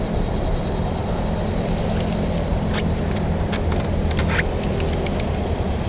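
Steady low drone of a boat engine, with a few brief clicks about three and four and a half seconds in.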